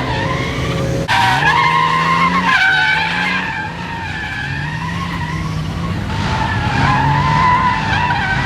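Nissan R32 Skyline drift car's straight-six engine revving up and down as the car drifts, with the tyres squealing.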